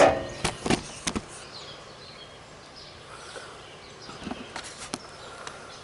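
Sharp clicks and knocks of a plastic lawn-tractor grill being worked loose from its hood by hand: a quick cluster near the start, then a few more about four seconds in.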